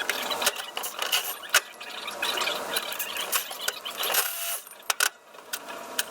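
Metal hand tools and parts clicking and clinking irregularly, a series of sharp knocks with a light rattle between them.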